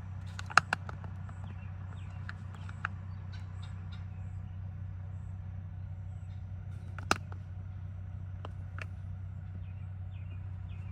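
A few sharp clicks and knocks of hand tools working loose the truck's dash trim and bolts, over a steady low hum, with faint bird chirps.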